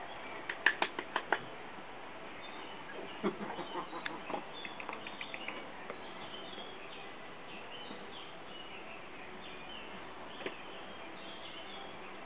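Faint outdoor background with small birds chirping intermittently; early on a quick run of about six sharp clicks, followed by a few fainter clicks.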